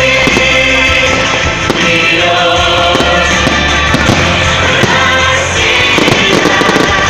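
Fireworks going off, with repeated sharp bangs, heard through loud music playing.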